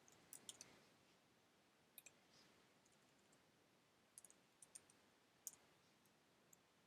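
Faint, scattered clicks of a computer keyboard and mouse, a few at a time with pauses between.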